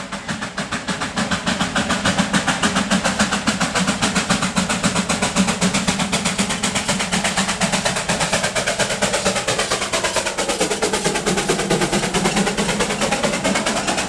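Narrow-gauge steam locomotive working, its exhaust beats coming in a quick, even rhythm, with a sweep in the tone near the end as it passes close by.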